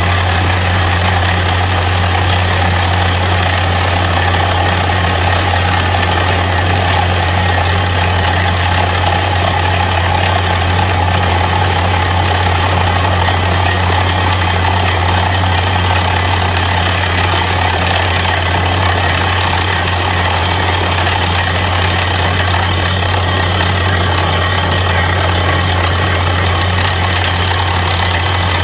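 Truck-mounted borewell drilling rig running steadily: a loud, unbroken engine drone with a deep hum beneath a dense mechanical roar.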